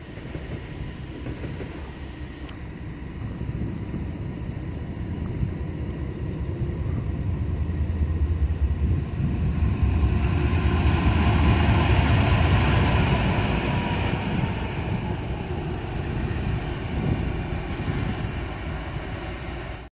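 A train passing: a low rumble that builds to its loudest about halfway through, with a rush of wheel and rail noise, then slowly eases off.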